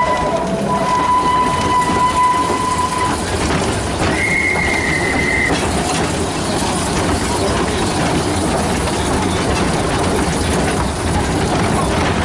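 Model garden-railway trains running on the track. Two steady whistle tones sound over the running noise: a lower one that stops about three seconds in, then a higher, shorter one about four seconds in.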